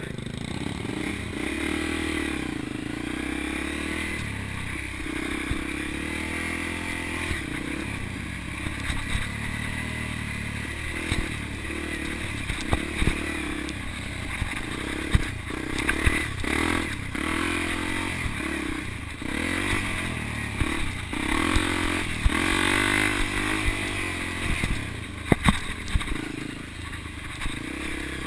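Motocross bike engine running under changing throttle, its pitch rising and falling again and again, with a few sharp knocks.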